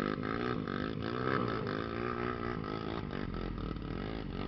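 Trail motorcycle engine revving on and off, its pitch rising and falling repeatedly.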